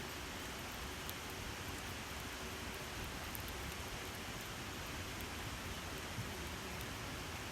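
Campfire burning with a steady hiss and a few faint, sparse crackles.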